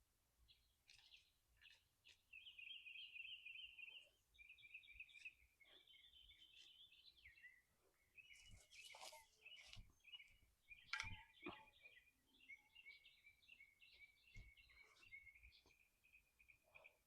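Faint outdoor chirping and trilling at night, high-pitched and almost continuous from about two seconds in, with a few short knocks near the middle.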